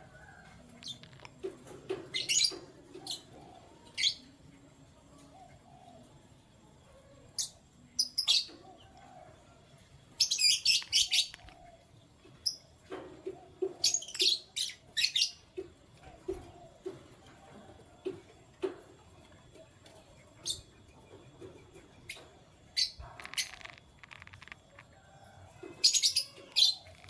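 Canaries chirping and tweeting in short, scattered bursts of quick high notes, with brief pauses between them.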